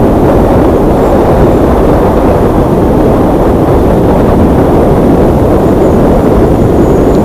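Loud, steady rush of wind and road noise from a moving vehicle, with no clear engine note standing out.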